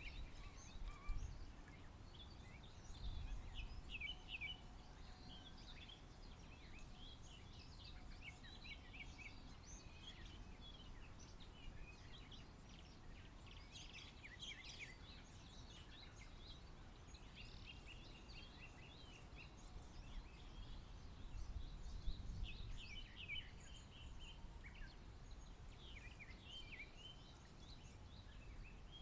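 Several small birds singing and chirping in overlapping short phrases and trills, faint against a low background hiss, with low rumbles twice, near the start and about two-thirds of the way through.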